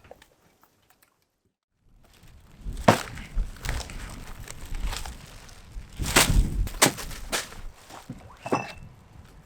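Silence for about two seconds, then a run of irregular knocks and thuds with a low rumble under them, the loudest knocks about three seconds in and again around six to seven seconds in.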